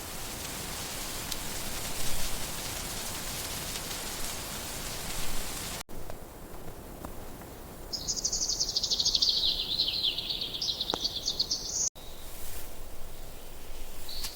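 Outdoor ambience in cut segments: a steady hiss at first, then, after a cut, a high, rapidly pulsing insect trill for about four seconds that dips in pitch and rises again before cutting off.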